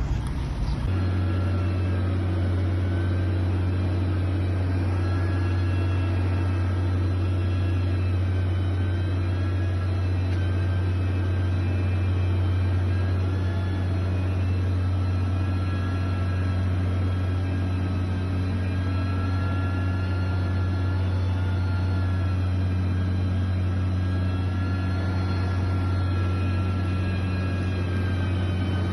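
Heavy construction machinery's diesel engine running steadily with a constant low hum, with a faint whine that wavers slowly in pitch above it.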